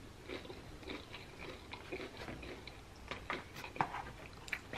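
Close-up chewing of a mouthful of nachos, with soft wet smacks and small clicks scattered irregularly through.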